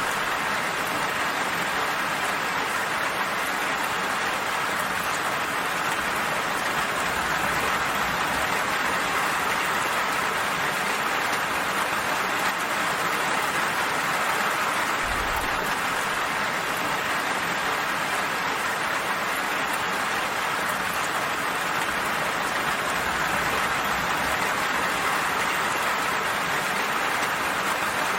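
Steady, even rain falling, a continuous hiss of drops.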